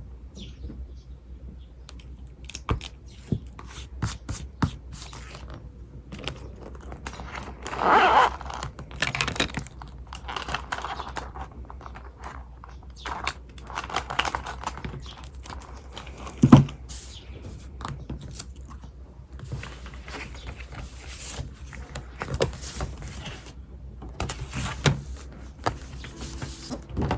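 Desk writing sounds: a pen or pencil scratching on paper, mixed with irregular taps, rustling and scraping of paper and stationery. A longer scrape comes about eight seconds in and a sharp knock about sixteen seconds in.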